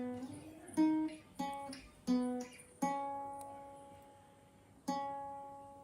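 Background music: slow acoustic guitar, single plucked notes and chords, each ringing out and fading.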